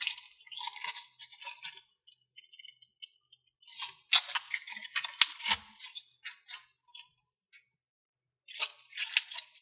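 Slime being squished and stretched by hand, giving crackly popping clicks in three spells with short pauses between them.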